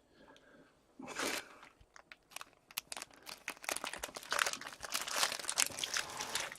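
Plastic wrapping crinkling and crumpling in the hands, a dense run of crackles that starts about a second in and grows louder toward the end.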